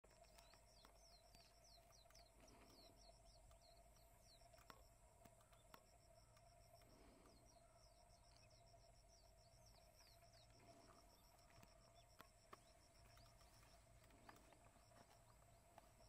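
Near silence: faint outdoor ambience with distant small birds chirping, runs of quick, high, downward-sliding notes, over a steady faint hum.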